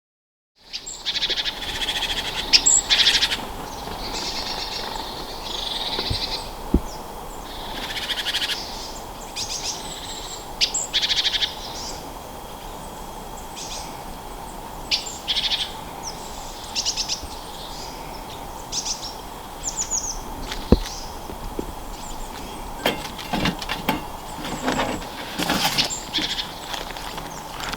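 Small birds calling with many short, high chirps and call notes, scattered irregularly, over a faint steady background tone.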